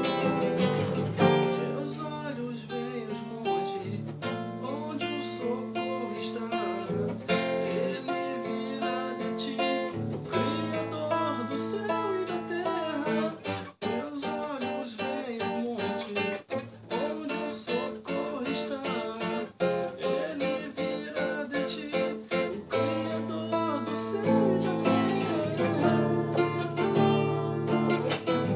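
Acoustic guitar music: plucked and strummed chords over a bass line that changes every few seconds, an instrumental passage of a song.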